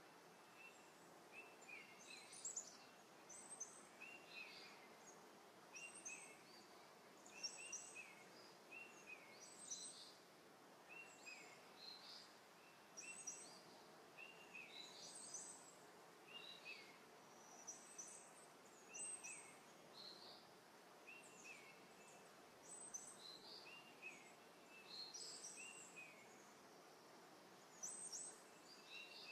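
Faint bird chirps, short quick notes repeating about every second over a low hiss.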